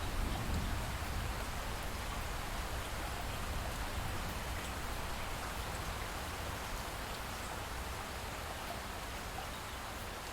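Light rain falling steadily, with a low rumble under it that is strongest at the start and slowly dies away.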